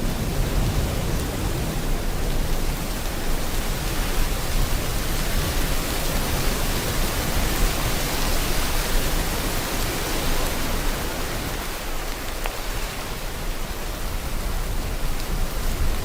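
Steady rain mixed with ocean surf: a continuous hiss that swells and eases slowly, easing a little about two-thirds of the way through before building again.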